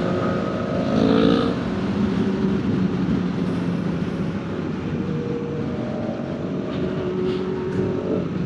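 A motor vehicle's engine running steadily, with a dense rush of wind or road noise over it.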